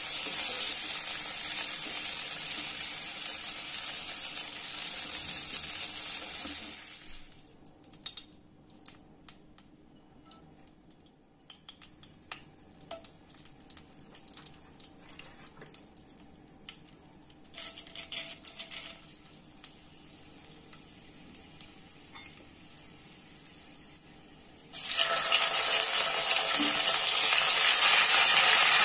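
Diced potato, carrot and peas sizzling as they are stir-fried in oil in a non-stick pan. Then a quieter stretch of hot oil with a whole red chili and spices, crackling and popping now and then. Near the end a loud sizzle starts suddenly as ginger-garlic paste goes into the hot oil and is stirred.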